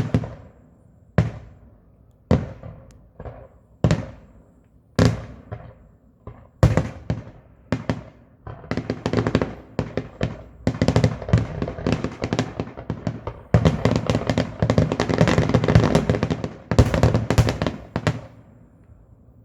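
Fireworks display: single shells bursting about once a second, then a dense barrage of rapid bangs and crackle that stops suddenly shortly before the end.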